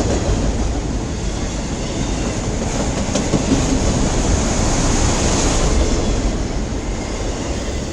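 Freight cars of a long mixed freight train rolling past slowly and steadily on the track.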